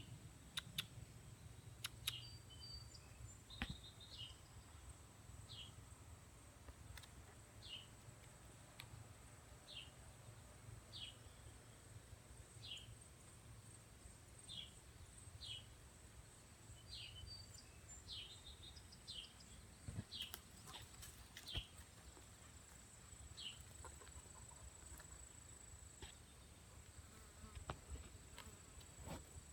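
Faint outdoor ambience: a short high chirp repeats every one and a half to two seconds over a thin, steady high-pitched hum, with a few soft clicks.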